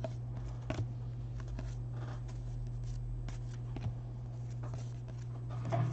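Trading cards being handled and slid from a pack, faint rustling with scattered light clicks, over a steady low hum.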